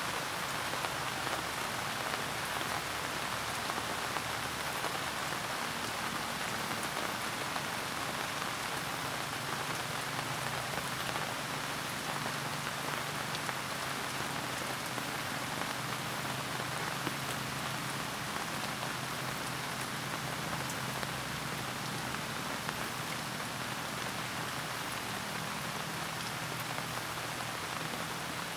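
Steady, gentle rain falling on a surface, a dense even patter of drops that does not change.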